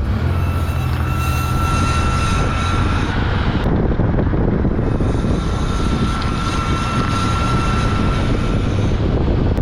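2004 Chevrolet Impala on the move: steady road and running noise with a thin, high brake squeal, heard twice for about three seconds each. The squeal comes from the brake rotor rubbing against an adjacent part.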